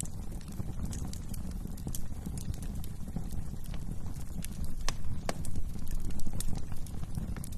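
Wood fire crackling in a fireplace: irregular sharp snaps and pops over a steady low rumble of flames.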